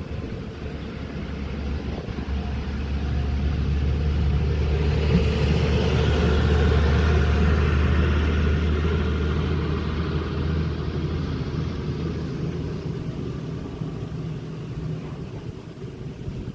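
A motor vehicle passing by: low engine rumble and road noise swelling to a peak about seven seconds in, then fading away.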